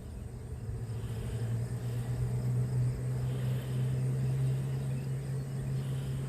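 Honeybees on the comb buzzing: a steady low hum, growing a little louder over the first few seconds.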